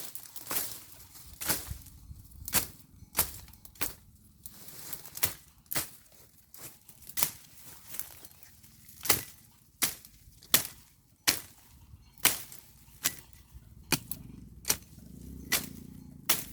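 Hand tool chopping through weeds and soil, one sharp chop about every three-quarters of a second in a steady rhythm.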